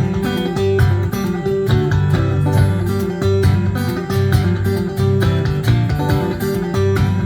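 Live band music: an instrumental passage led by guitar over a steady bass line, with no singing.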